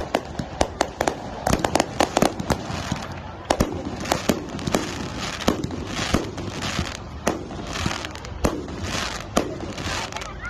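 Fireworks going off: a rapid, irregular string of sharp bangs and pops as shells are launched from the ground and burst in the air.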